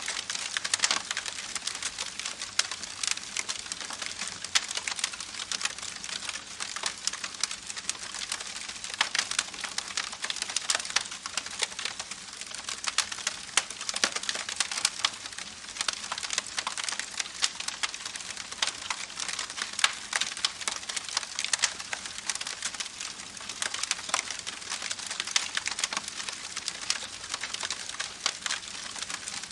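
Wood fire crackling: a continuous hiss with dense, irregular snaps and pops.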